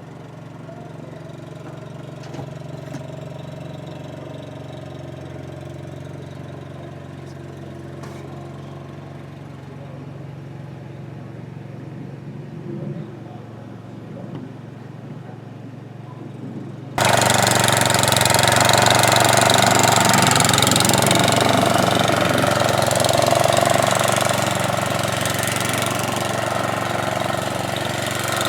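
Sears Suburban garden tractor engine running steadily at idle. About two-thirds of the way in, the sound jumps abruptly to a much louder, harsher running noise that continues to the end.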